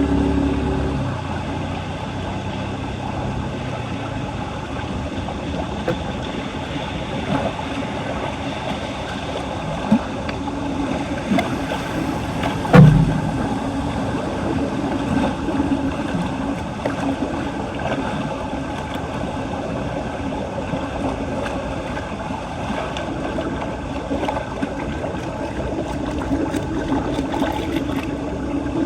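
Floodwater rushing and gurgling steadily down a street storm drain. A sharp knock about thirteen seconds in, and a smaller one a few seconds earlier.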